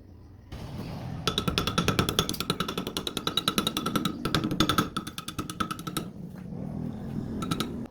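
One bolt spun at speed against another to friction-weld them: a rapid, even rattling over a steady whine and rumble. It stops about six seconds in and comes back briefly near the end.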